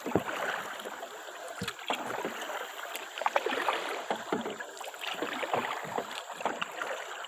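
Kayak paddle strokes dipping and splashing in the water, irregular and repeated, over a steady wash of moving water.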